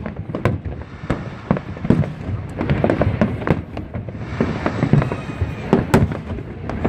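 Aerial fireworks going off in quick, irregular succession: a dense string of bangs and shell bursts, several a second, with the loudest bang about six seconds in.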